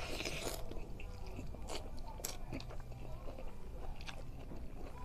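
A person chewing a large mouthful of hand-fed rice, with wet mouth smacks and several sharp clicks; more food goes in by hand near the end.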